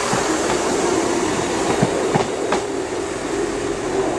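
Class 158 diesel multiple unit running past, its engines a steady drone, with three sharp wheel clicks over rail joints about two seconds in.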